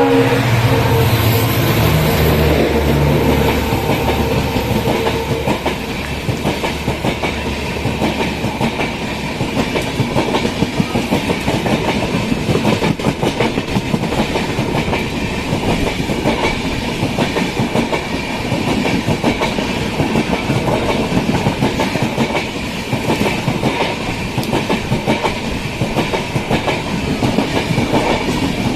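A passenger train running along the track, its wheels clacking over the rail joints in a steady, fast rhythm with continuous rumble and rattle. A held tone sounds at the start and dies away within the first few seconds.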